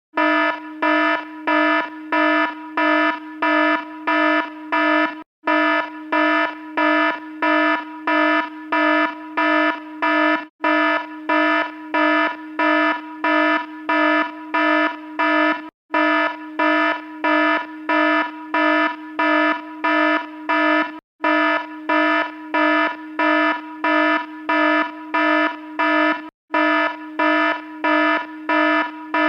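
Electronic alarm sounding a buzzy tone that pulses about twice a second. It cuts out briefly about every five seconds.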